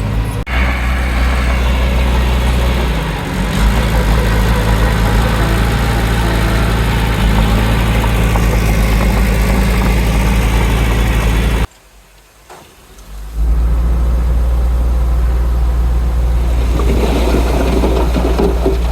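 Diesel engine of heavy earthmoving machinery running steadily. It drops away abruptly for about a second and a half past the middle, then comes back, with some rattling near the end.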